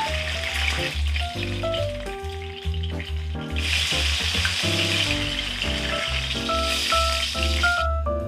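Starch-coated crab pieces frying in hot oil in a wok: a steady sizzle that thins out about two seconds in, comes back strongly about a second later and breaks off suddenly near the end. Background piano music plays throughout.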